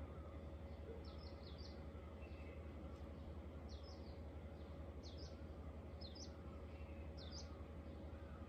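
A small bird chirping in about five short clusters of quick high notes, a second or so apart, over a steady low hum.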